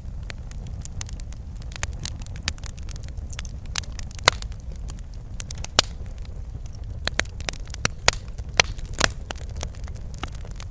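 Fireplace fire crackling: irregular sharp pops and snaps over a steady low rumble of the flames, with a few louder pops in the second half.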